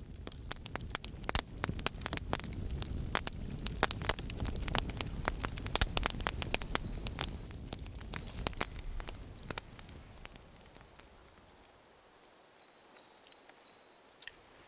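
Wood campfire crackling, with many sharp snaps and pops over a low rumble, dying away after about ten seconds.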